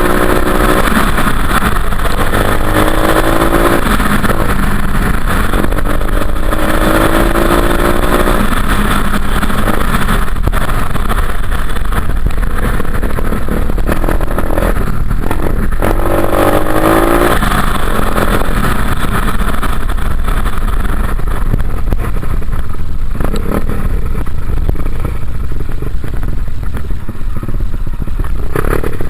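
Dirt bike engine running under way, the revs climbing and dropping back several times as it pulls and shifts, over a steady rushing noise.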